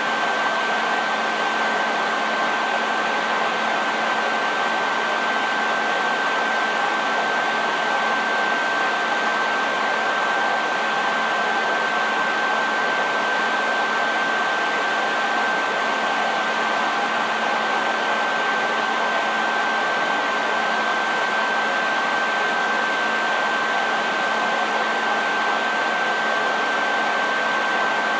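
Hair dryer running steadily: an even rush of blown air with a steady high whine from the motor and fan and a faint lower hum, unchanging throughout.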